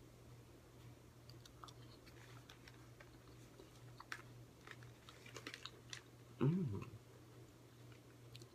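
Faint chewing of dried cranberries with small mouth clicks, then a short "mm" of enjoyment, rising and falling in pitch, about six and a half seconds in. A steady low hum sits underneath.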